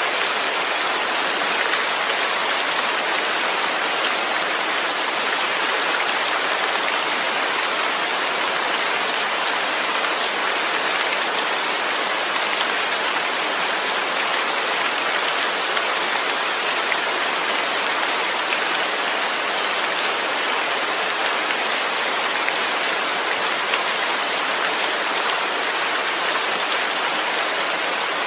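Steady, even rain, a constant hiss of falling drops without breaks or thunder.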